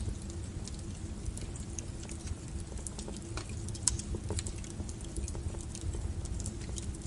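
Wood fire burning with a steady low rumble of flames and frequent sharp crackles and pops from the burning firewood, one pop louder than the rest a little before the four-second mark.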